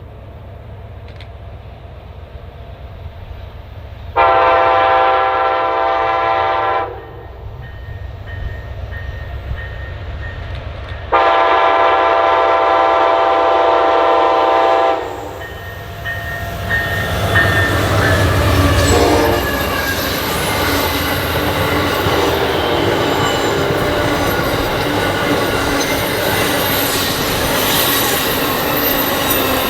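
Approaching train's locomotive horn sounding a chord in two long blasts, the first about two and a half seconds and the second about four, over a low engine rumble. From about sixteen seconds in the train passes close by, with loud, steady wheel-on-rail noise.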